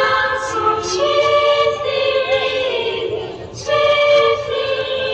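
A group of voices singing together in long held notes, changing pitch step by step.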